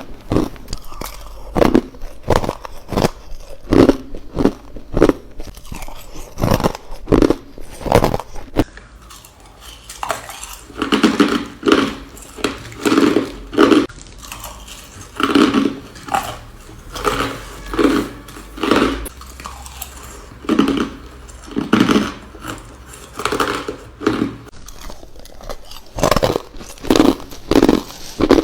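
A person biting and crunching ice cubes: a run of sharp, quick cracks for the first eight seconds or so, then steady chewing crunches about once a second.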